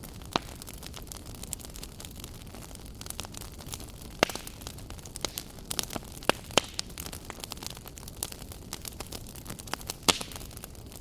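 Wood fire burning in a fireplace: a steady low hiss with irregular sharp crackles and pops, the loudest pops about four, six and ten seconds in.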